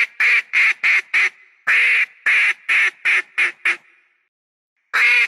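A duck quacking in rapid runs of loud, nasal quacks. Each run opens with longer quacks that grow shorter and quicker. There is a pause of about a second in the middle, and a new run starts near the end.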